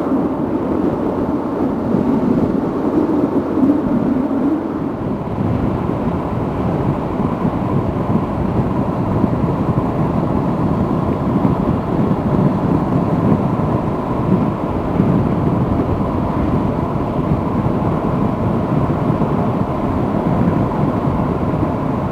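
Steady rush of wind on the microphone over a motorcycle running at cruising speed on the road, with a faint steady tone throughout.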